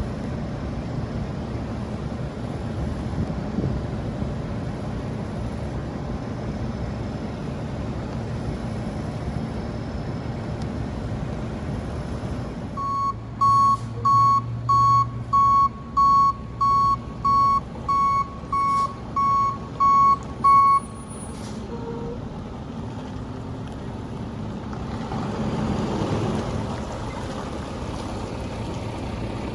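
Garbage truck running with a steady diesel rumble, then its reversing alarm beeping about a dozen times at an even pace of roughly one and a half beeps a second. Near the end the engine swells louder for a few seconds.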